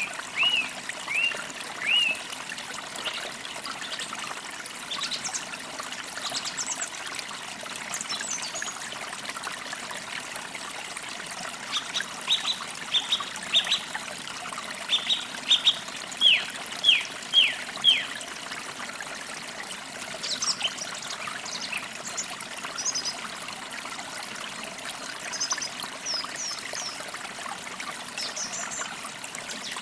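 Forest birds singing over the steady trickle of a small stream. A few short whistled notes open it, a loud run of quick falling notes comes midway, and high thin chirps follow later.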